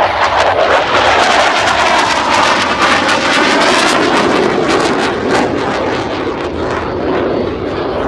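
CF-18 Hornet jet fighter passing overhead: a loud jet roar that eases slowly over the last few seconds.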